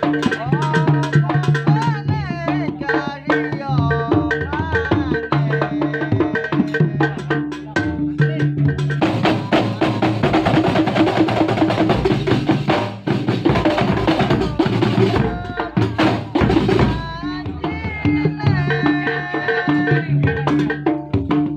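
Kuntulan ensemble music: drums and hand percussion beating under a gliding melody and sustained notes. The drumming thickens into a louder, denser passage in the middle, then thins out again.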